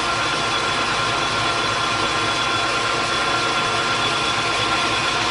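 Metal lathe running under a cut, turning a metal part down in diameter. It is a steady machine noise with several steady whining tones.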